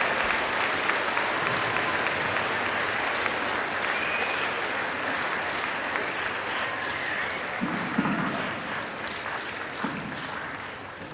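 Audience applauding, a dense steady clapping that thins out and fades toward the end.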